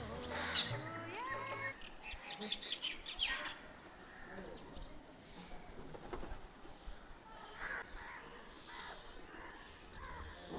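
Birds chirping: a busy run of short high calls in the first few seconds, then fainter scattered calls. Music with steady tones fades out in the first two seconds.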